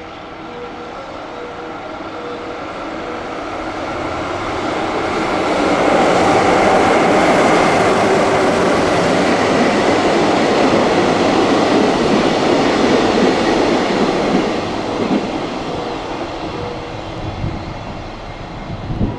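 JR West electric train passing through a station at speed: the rush of wheels and running gear rises, holds loud for several seconds, then fades away. A short low thump comes near the end.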